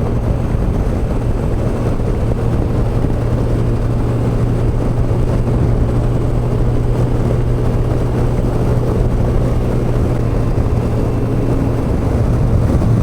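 Yamaha FJR1300's inline-four engine running steadily as the motorcycle cruises along the road, a constant low hum over a steady rush of road and air noise.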